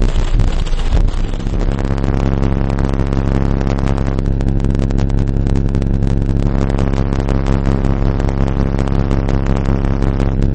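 An 18-inch Kicker Solo-X subwoofer in a ported box played at high excursion, giving loud, distorted low bass. Rough thumping for the first second and a half settles into a steady droning bass note that cuts off suddenly at the end.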